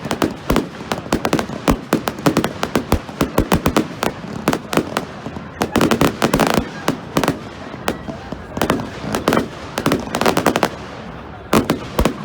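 Fireworks going off in rapid volleys of sharp bangs and crackles, with a short lull a little before the eight-second mark.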